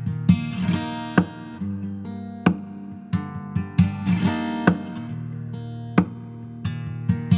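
Acoustic guitar strumming chords in an instrumental passage, with a sharp percussive hit about every second and a quarter.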